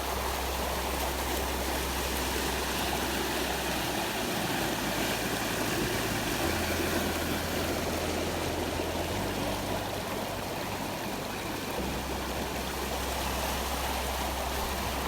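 Cold mountain stream water rushing and flowing, a steady, even sound with no break.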